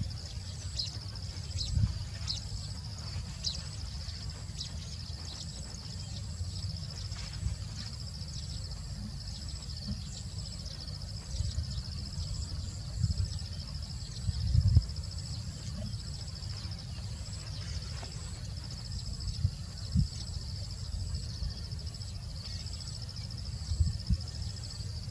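Steady, high, continuous insect chorus over a low rumble, with a few soft thumps scattered through.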